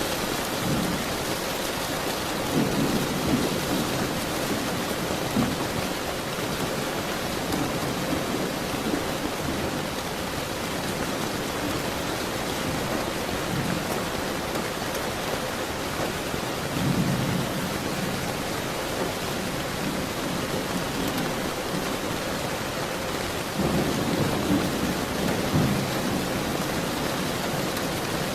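Steady rain falling in a thunderstorm, with low rolls of thunder rumbling in three times: a few seconds in, past halfway, and near the end.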